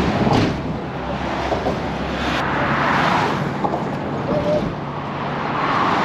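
Road traffic: a steady rush of passing cars, swelling twice as vehicles go by, with an engine running low underneath that drops away partway through.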